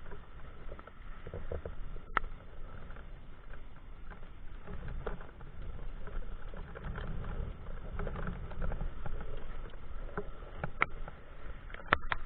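Steady pattering of heavy rain and wet-road noise while riding a mountain bike, over a low rumble that swells in the middle, with scattered sharp clicks and knocks.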